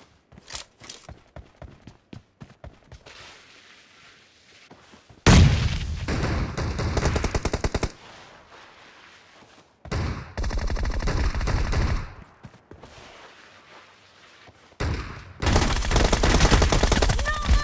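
Video-game automatic gunfire: three long bursts of rapid fire, starting about five seconds in, about ten seconds in, and again near the end. Between the bursts are faint scattered clicks and ticks.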